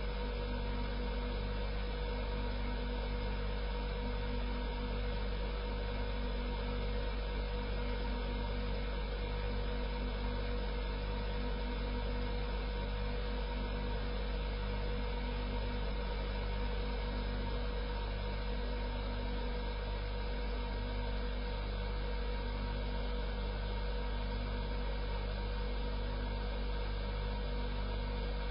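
Electric grinder (sharpening machine) motor running steadily at close range: a constant hum with a faint, regular pulsing.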